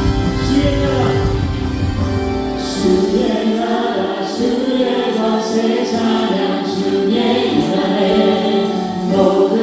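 Live worship band music with singing. Bass and drums play for about the first three seconds, then drop away, leaving voices singing over keyboard.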